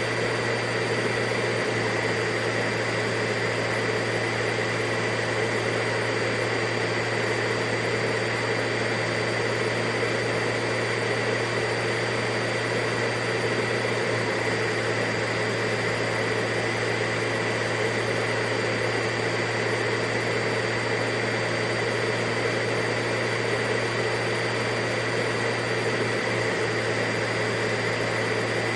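Vacuum cleaner running steadily: an even rushing noise over a constant low hum, with no change in motor speed.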